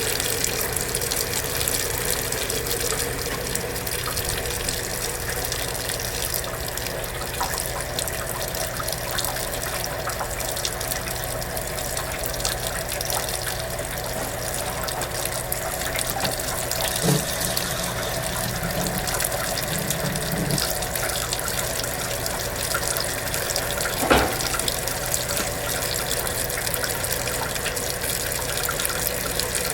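Water running steadily from the sink faucet hose into the tub of a Kenmore belt-drive portable washing machine as it fills, with a faint steady hum under it. A sharp knock comes once near the end.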